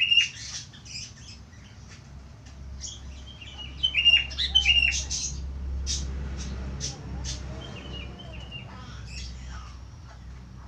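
Budgerigar chirping and warbling in quick bursts of short high notes, loudest right at the start and again about four to five seconds in. A low rumble sits underneath through the middle.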